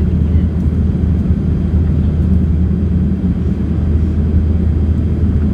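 Steady low rumble of a Boeing 787 heard inside the passenger cabin: engine and airflow noise during the descent, with a constant low hum under it.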